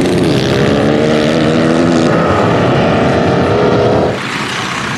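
Truck engine revving hard under load, its pitch climbing steadily for about four seconds before the sound cuts off sharply.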